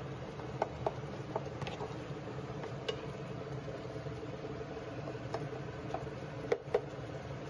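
Wooden spatula stirring a thick pea, potato and tomato mixture in a nonstick frying pan, giving scattered sharp taps and scrapes against the pan, the two loudest close together near the end. A steady low hum runs underneath.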